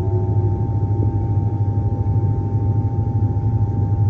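Cabin noise inside a moving Queensland Rail electric suburban train: a steady low rumble of the train running on the rails, with a constant high hum.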